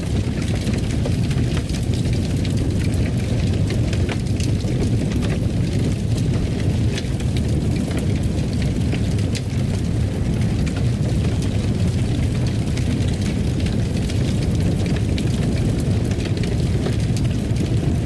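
Wood fire burning in a fireplace: a steady low roar with scattered crackles and pops throughout.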